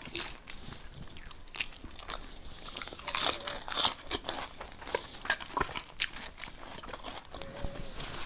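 A person chewing and biting food close to the microphone: scattered small crunches and mouth clicks, busiest a few seconds in.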